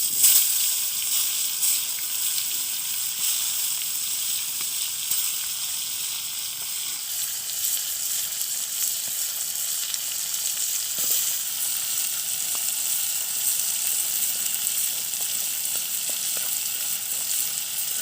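Food sizzling steadily in hot oil in a wok, with a louder flare of sizzle right at the start.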